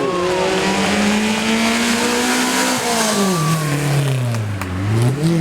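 Race car engine at high revs passing along a hillclimb stage, its pitch holding and creeping up, then falling away as the driver lifts off about three seconds in, and picking up again near the end.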